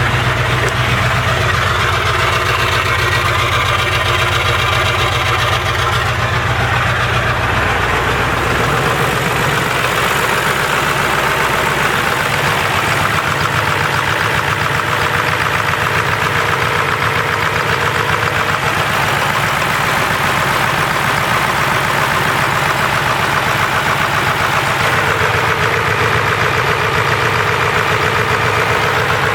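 Ford 7.3L PowerStroke V8 turbo diesel idling steadily after being started. About eight or nine seconds in, its low drone drops away and the idle settles into a finer, even rhythm.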